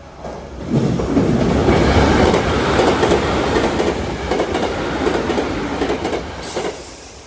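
Tokyu Meguro Line electric train passing over a level crossing at high speed: a loud rush of wheel and running noise with quick clicks of the wheels over rail joints. It swells in under a second in and dies away near the end.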